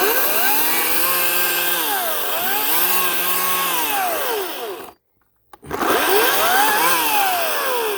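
Ryobi electric chainsaw running, its motor pitch dipping and rising as it loads up in the cut and frees again. It cuts out abruptly about five seconds in and starts again half a second later.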